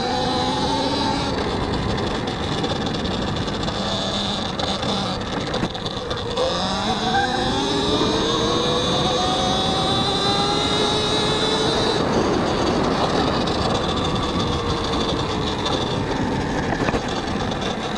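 Talaria X3 electric dirt bike's motor whining under wind and tyre noise. The whine drops as the bike slows about six seconds in, then climbs steadily in pitch as it accelerates again.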